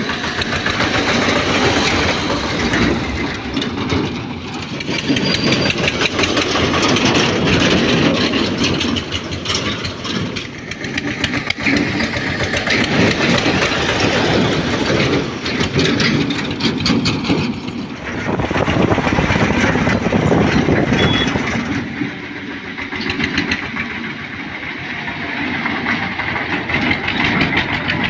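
Eicher 242 tractor's diesel engine running, its level swelling and easing every few seconds, with a dense clattering rattle over it.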